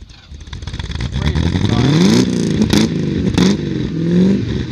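A car engine revving hard as the car accelerates away, its pitch climbing then dropping sharply twice as the revs fall, with sharp exhaust cracks at each drop.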